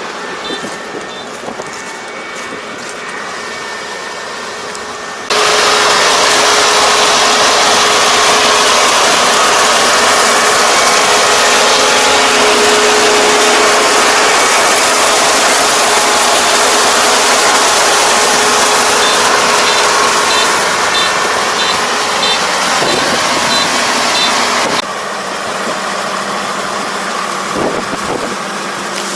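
Combine harvester running with a steady machinery drone; it turns suddenly much louder about five seconds in and drops back near the end.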